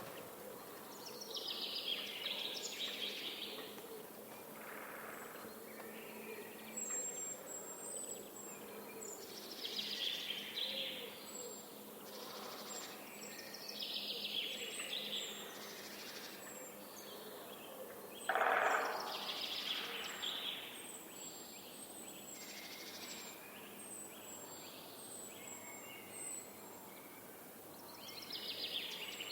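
Wild birds singing and calling: several song phrases of a second or two spread through the stretch, and a string of short, very high chirps. One louder, lower burst lasting about a second comes about two-thirds of the way through, over a steady outdoor background hiss.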